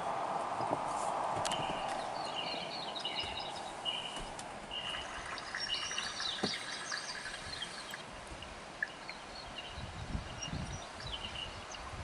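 Songbirds calling: a short high note repeated over and over, with a brief stretch of busier, more varied song about halfway through. Underneath is a steady hiss that fades over the first few seconds, and some low rumbling near the end.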